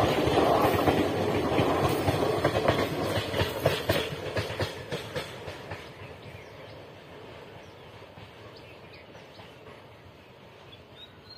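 Indian Railways passenger train's coaches running past, their wheels clattering over the rail joints in a quick run of clicks. The clatter fades away over about six seconds as the last coach goes by.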